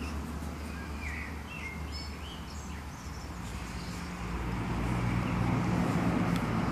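Outdoor ambience: small birds chirping a few times in the first half, over a steady low rumble that grows louder about four seconds in.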